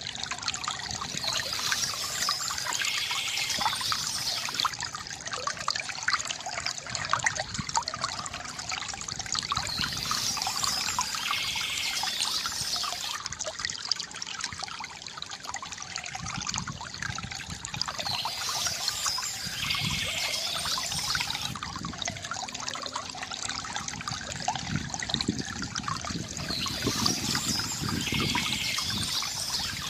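Water trickling and splashing steadily from a bamboo fountain spout. Bird chirping comes and goes, about every eight seconds.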